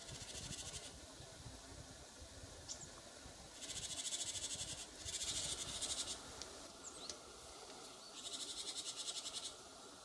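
A small songbird's high, dry trills: four rapid rattling trills of about a second each, with a couple of short thin rising chirps between them.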